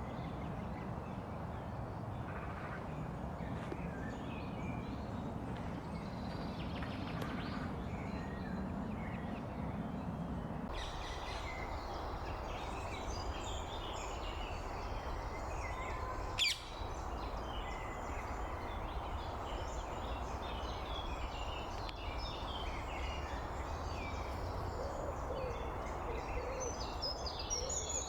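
Wild birds chirping and calling over a steady outdoor background hiss, with many short high calls overlapping. A single sharp click stands out about sixteen seconds in.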